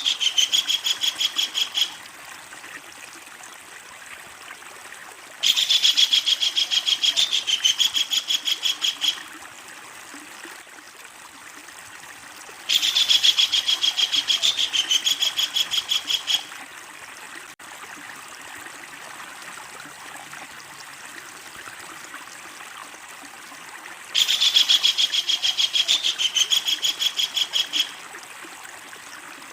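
A kingfisher (tengkek udang) giving its loud, long rattling call, a rapid run of about seven sharp notes a second. One run ends about two seconds in, and three more follow, each lasting nearly four seconds with pauses of several seconds between them.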